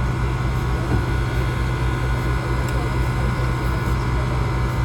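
An engine idling: a steady low hum with a slow, even pulse underneath.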